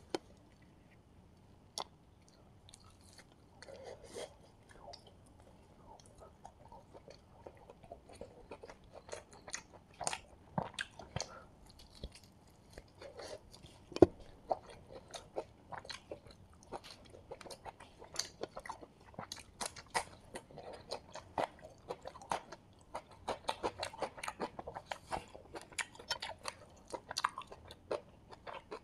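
Close-miked chewing and biting of Kerala-style fried chicken, with irregular crunches of the crisp coating and wet mouth clicks. The sharpest crunch comes about fourteen seconds in.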